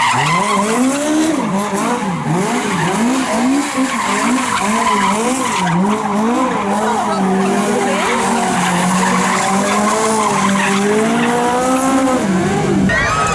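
Vehicle engine revved hard in quick blips, about two a second, then held at high revs for several seconds and let drop near the end, with tyre squeal as in a burnout display.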